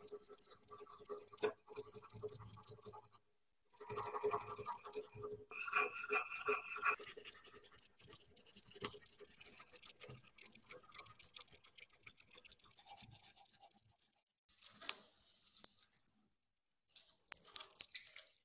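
Scrubbing and scraping on the rusty metal parts of an antique meat grinder, in uneven bouts of strokes, with two short hissing bursts near the end.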